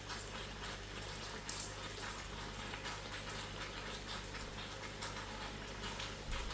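Chicken cooking in hot oil and seasonings in a pot, sizzling steadily with scattered small crackles, over a low steady hum.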